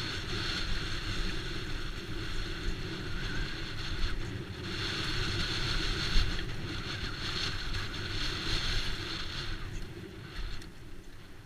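Mountain bike running fast down a dirt trail: tyres rolling and rumbling over the ground, with wind noise on the microphone. A high hiss comes and goes several times as the speed and terrain change.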